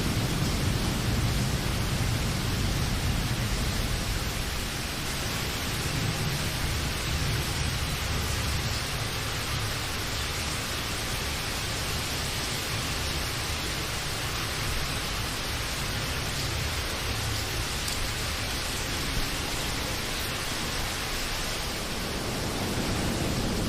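Steady rain falling, an even hiss with a low rumble underneath that swells and fades several times.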